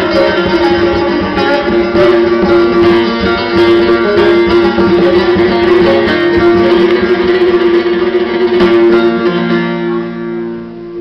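Instrumental music played on a plucked string instrument over a steady held drone note; it dies down near the end.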